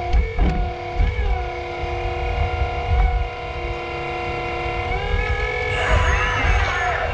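Hydraulic pump of a 1/8-scale RC excavator whining steadily, its pitch dipping and recovering several times as the arm and bucket take load while digging. A harsher, rougher stretch comes near the end.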